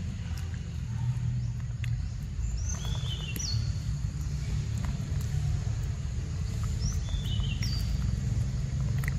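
A bird calls twice, about four and a half seconds apart, each call a short high note sliding down to a lower one, over a steady low rumble. Faint wet clicks of a macaque chewing mango come and go.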